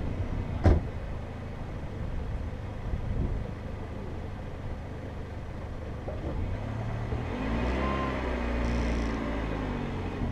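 Car engine idling, with a single knock less than a second in; about seven seconds in the engine note rises and then falls again over two seconds or so.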